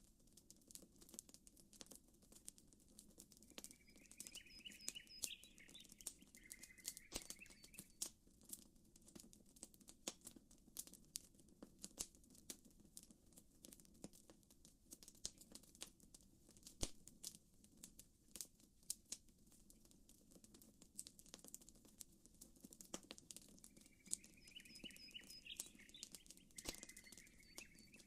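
Faint campfire crackling: wood snapping and popping in irregular sharp clicks over a steady low murmur of gentle water ripples. A short bird chirp comes twice, about four seconds in and again near the end.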